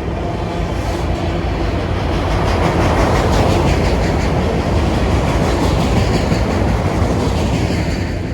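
Norfolk Southern freight train rolling past, a steady rumble with the wheels clacking rapidly and evenly over the rail joints.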